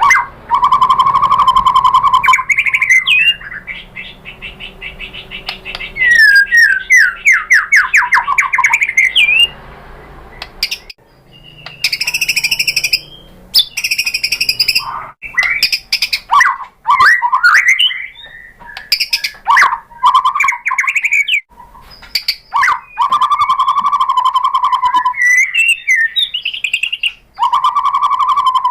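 White-rumped shama (murai batu) singing loudly in varied phrases: fast runs of sweeping notes, steady held notes, whistled slurs and short chattering bursts, with brief pauses between phrases. It is a song used as a lure to provoke other shamas into singing.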